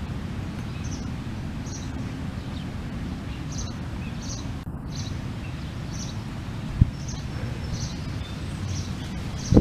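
A small bird repeating a short, high chirp about once a second over a steady low rumble, with one low bump about two-thirds of the way through.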